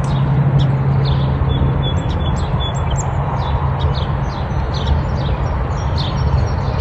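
Sparrows chirping, many short high chirps in quick succession, over a steady low rumble with a hum in the first couple of seconds.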